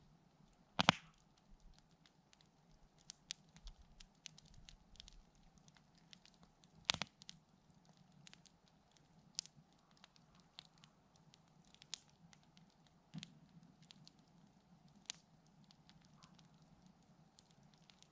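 Wood campfire crackling: scattered sharp snaps and pops, with two louder pops, one about a second in and one about seven seconds in.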